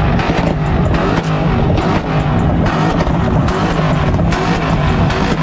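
Car engines held on the two-step launch limiter at a steady high rev, the exhaust popping and cracking rapidly as the limiter cuts spark: the kind of pops that shoot flames out of the tailpipes.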